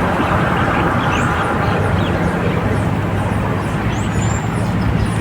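A steady engine drone with a low hum under it, and short high chirps scattered through it.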